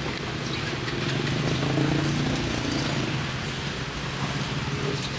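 A motor vehicle's engine running with a steady low hum over street noise. It grows louder about a second in and eases off after about three seconds.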